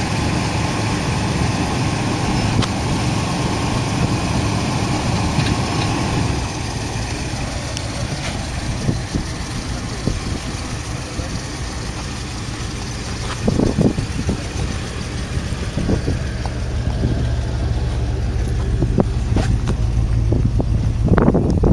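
Mid-1970s Cadillac Coupe de Ville's V8 engine idling steadily, with a few short knocks on top. The low rumble grows stronger near the end.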